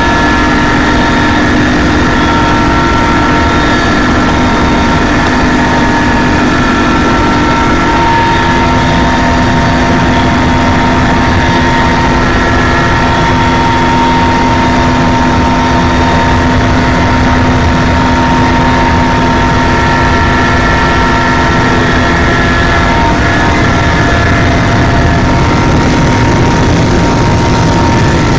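Helicopter in flight: a steady, loud engine and rotor noise with several constant whining tones over it.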